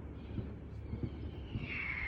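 Fireworks display in the lull after a burst: a low rumble with faint scattered pops. Near the end a high whistle starts and slowly falls in pitch.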